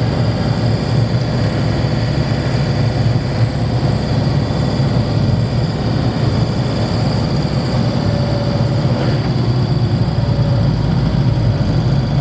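Camper van's engine and road noise heard inside the cab while driving: a steady low drone. The engine is running on a newly fitted timing belt.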